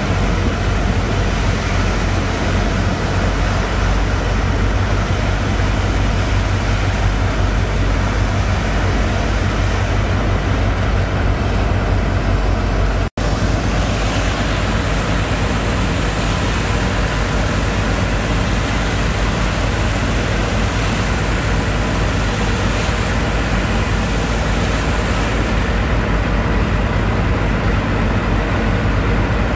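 Engine of a sand-pumping boat running steadily under load, driving the sand pump, with a loud low hum and a constant rush of noise. The sound cuts out for an instant about 13 seconds in.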